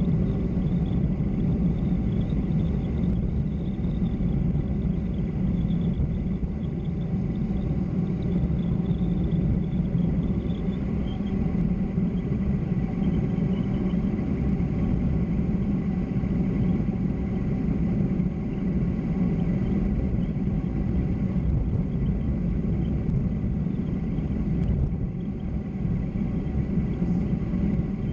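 Steady low rumble of wind and road noise during a fast downhill descent, unbroken throughout.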